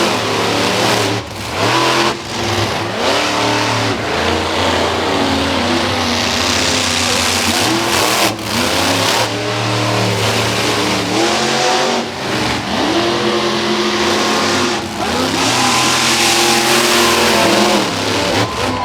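Monster truck engines racing at full throttle, revving up and dropping back again and again as the trucks accelerate, lift off and jump around the course.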